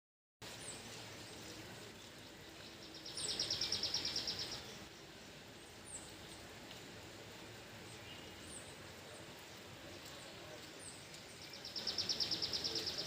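Songbirds singing: two loud, rapid high trills of about a second and a half each, one near the start and one near the end, with short, very high chirps repeated about once a second in between, over a steady background hiss.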